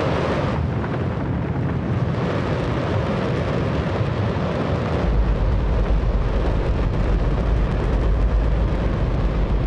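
A hydrogen-oxygen Space Shuttle main engine firing on a test stand: a loud, steady roar whose deep rumble grows heavier about five seconds in.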